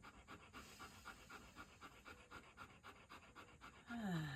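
A dog panting rapidly and steadily through an open mouth, still winded from a walk. Near the end a short voice sound falls in pitch.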